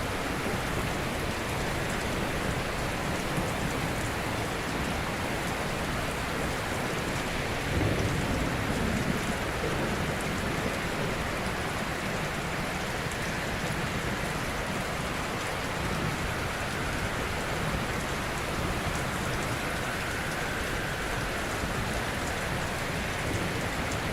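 Ocean surf: a steady wash of breaking waves, with one wave swelling louder and deeper about eight seconds in.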